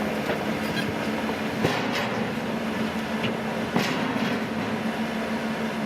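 Tracked earthmoving machine's diesel engine running steadily, with several sharp metallic clanks, the loudest about two seconds in and again near four seconds.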